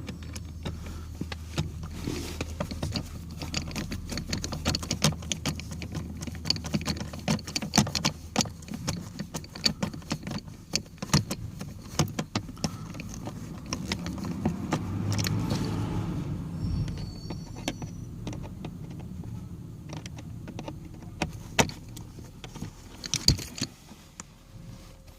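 Irregular clicks, taps and light rattles of hands and a screwdriver working a new HVAC blower resistor into place under a car's dashboard, over a low steady hum.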